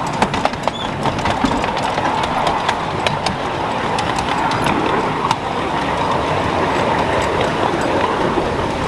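Miniature railway train running, with a dense run of sharp irregular clicks, thickest in the first few seconds, over a steady rumble and a faint steady whine.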